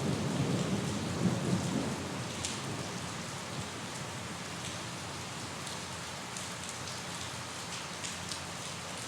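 Steady rain falling, with a low rumble of thunder dying away over the first two seconds. Scattered sharper drops tick on a surface through the hiss.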